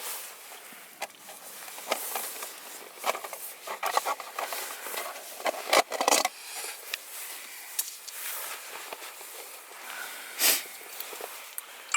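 Rubbing, scraping and rustling with scattered clicks and knocks as a small titanium gas stove is worked out of the tight case it is jammed in. A couple of louder crackling scrapes come about halfway through and again near the end.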